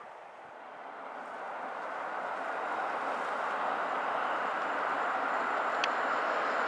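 Steam-hauled passenger train behind LNER A1 Pacific 60163 Tornado approaching along the main line: a steady rushing roar that grows louder.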